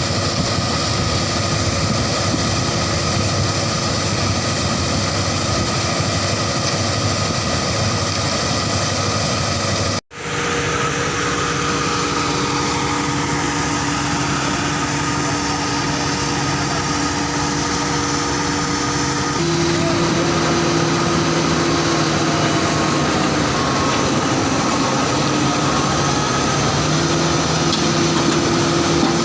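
Heavy machinery diesel engines running steadily, with several held engine tones. The sound cuts out for a moment about ten seconds in and returns at a different pitch, then shifts again a little past halfway.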